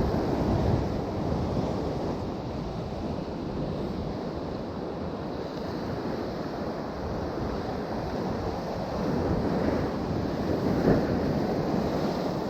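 Sea surf washing against the shore in a steady rush, with wind buffeting the microphone.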